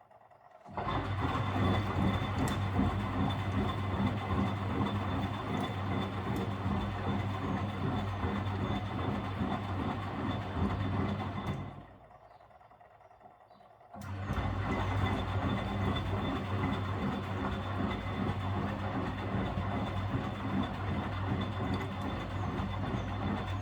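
Miele W761 washing machine's drum motor turning the drum in its wash rhythm: a steady humming run of about eleven seconds that stops abruptly, a two-second pause, then a second run. The owner says its motor bearings are plainly audible and a bit 'extravagant', meaning noisy.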